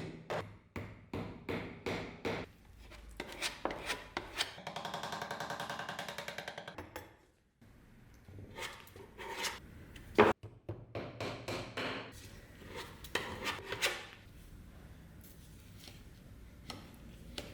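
Hand restoration work on old wood and metal parts: a run of short rubbing or scraping strokes, a few seconds of a small motor's even buzz about five seconds in, a single sharp knock around ten seconds in, then more scraping strokes.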